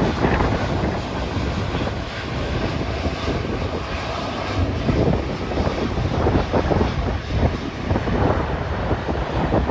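Jet airliner engines running on or near the runway, a steady rushing jet noise, with strong wind buffeting on the microphone.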